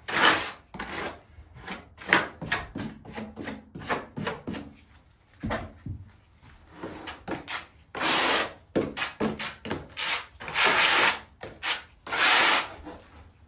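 Trowel scraping and spreading thinset mortar in repeated short strokes, with a few longer, louder scrapes in the second half.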